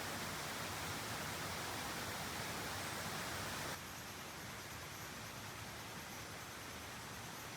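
Steady hiss of outdoor ambient noise, with no distinct events. It drops a little in level about four seconds in.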